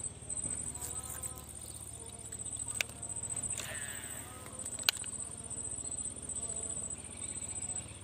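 Insects trilling in a high, steady pitch, in stretches that break off and restart every second or so, over a low pulsing hum. Two sharp clicks stand out near the middle, with a short swish between them.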